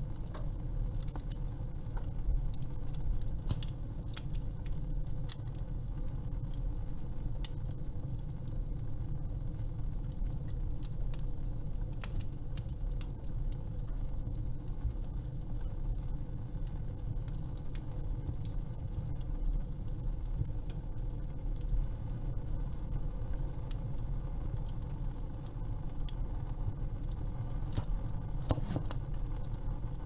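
Wood fire crackling: irregular sharp pops and snaps of burning wood over a steady low rumble of the flames.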